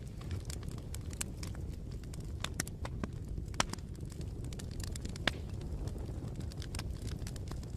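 Wood fire crackling: irregular sharp pops and snaps over a low steady rumble, the loudest pop about three and a half seconds in.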